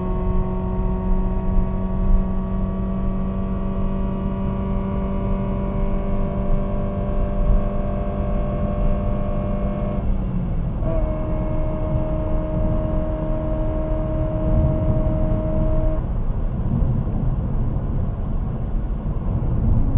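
Ford Fiesta Mk7 1.4 four-cylinder engine, running on LPG and fitted with a BMC sports air filter, pulling at high revs near top speed. Its note holds high and creeps slowly upward. About halfway through the note drops away as the revs fall, leaving a steady hum for a few seconds and then mostly road and wind rumble.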